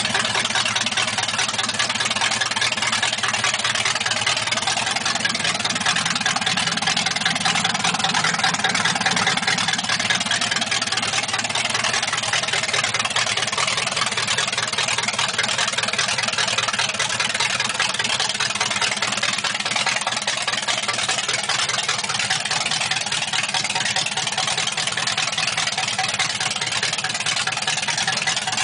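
Chevrolet 283 small-block V8 idling steadily.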